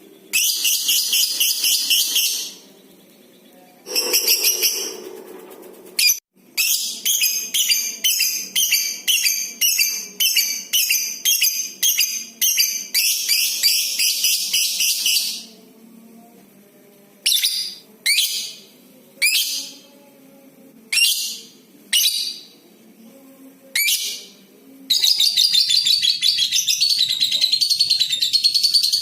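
Lovebird calling in shrill, rapid chatter. Short bouts of fast pulsed calls come first, then a long run of repeated calls about twice a second, then six single sharp calls. Near the end comes a long unbroken rapid trill, the 'ngekek' that keepers prize.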